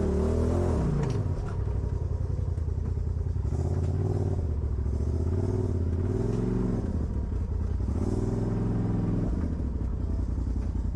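Off-road vehicle engine running at low revs, its firing pulses audible, with the revs rising and falling several times as the throttle is worked in short bursts.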